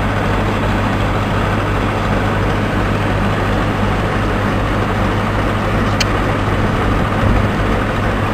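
A heavy engine running steadily with a constant low hum, and a short click about six seconds in.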